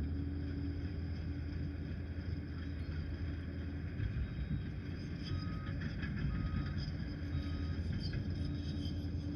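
Liebherr 746 crawler dozer's diesel engine running steadily, with scattered knocks. In the second half, short beeps come about once a second.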